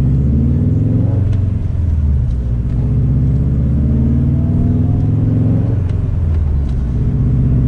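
Subaru WRX STI's turbocharged 2.5-litre flat-four engine running as the car is driven, a low drone that rises and falls in pitch with engine speed.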